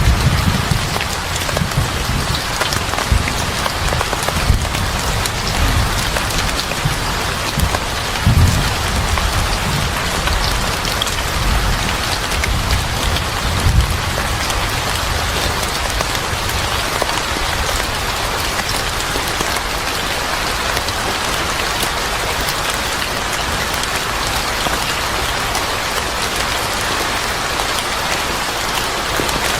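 Steady, heavy rain falling on surfaces, with uneven low rumbling through the first half that then settles.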